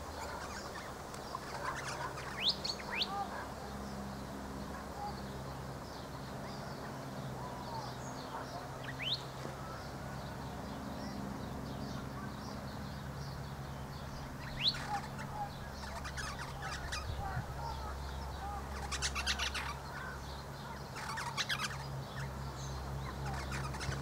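Birds calling: a few short, sharp rising whistles scattered through, then two quick runs of chirps near the end, over a low rumble of wind on the microphone.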